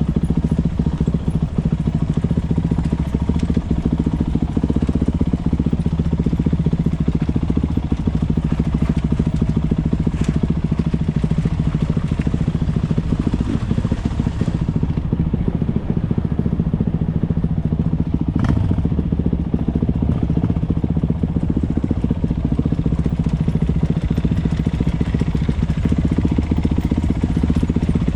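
Motocross motorcycle engines running steadily and loud, with no clear revving, and two brief clicks partway through.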